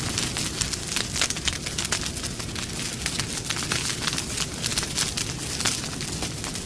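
Campfire crackling, with many quick sharp pops and snaps over a steady low rumble of burning.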